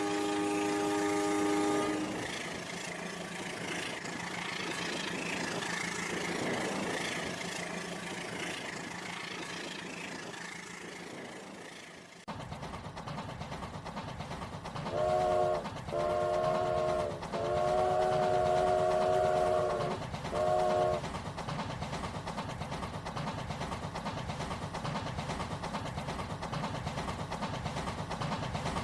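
A train horn sounds briefly at the start, then a train runs with a steady rhythmic clatter. The sound changes abruptly a little under halfway through, and in the middle the horn blows four times: short, long, longer, short.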